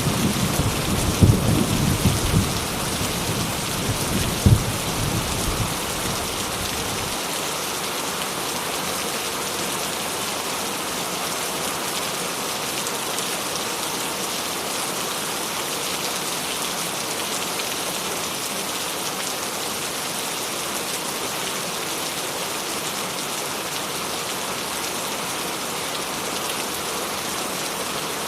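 Steady rain falling. A low rumble of thunder, with one sharp clap about four and a half seconds in, dies away over the first seven seconds, leaving an even hiss of rain.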